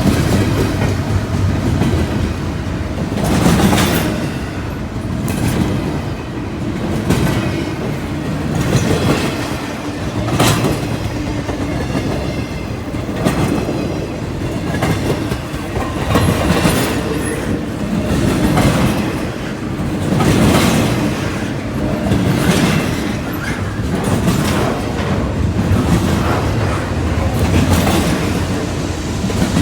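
CSX freight train rolling past, steel wheels clicking over rail joints every second or two over a steady low rumble.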